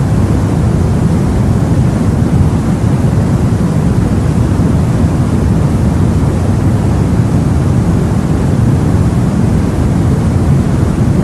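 Steady, low rumbling rush of sea water and wind, unchanging throughout, with no separate waves breaking out of it.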